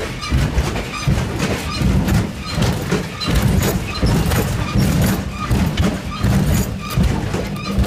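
Passenger train running along the track, heard from the end of a carriage: a loud, continuous rumble with irregular knocks and rattles from the wheels and the carriage's steelwork.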